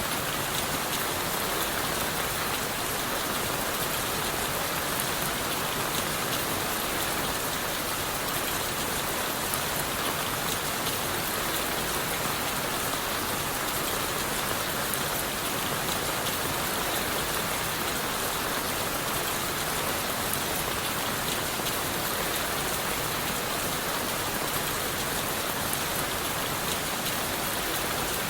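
Steady rain falling on forest leaves and the wood of a shelter: an even, dense patter of drops that does not let up.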